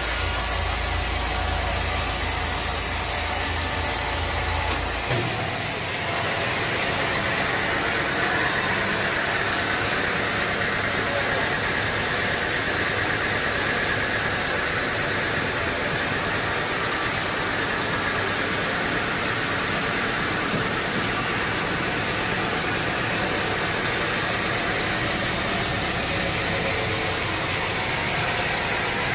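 Sawmill machinery running steadily. A low hum drops out abruptly about five seconds in, and the even mechanical noise carries on.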